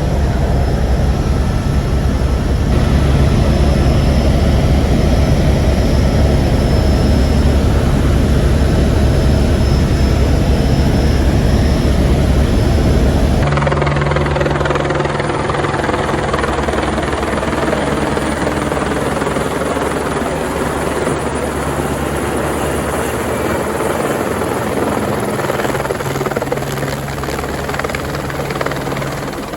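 Twin Squirrel twin-engine helicopter running loud and close, with a rapid, even rotor chop over the turbine noise. The sound changes abruptly about 13 seconds in, becoming lighter in the low end.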